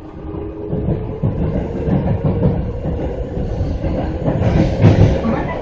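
Seibu 6000 series electric train, built with a Hitachi GTO-thyristor VVVF inverter, running and heard from inside a car: a steady low rumble of wheels on rail with irregular clacks over the joints.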